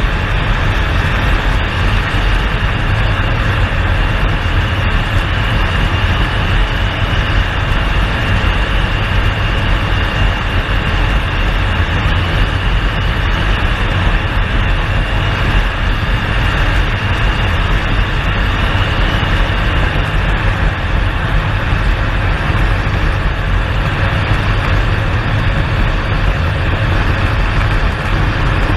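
Air Tractor AT-802 agricultural plane's turboprop engine running steadily, a constant loud noise with a faint high whine.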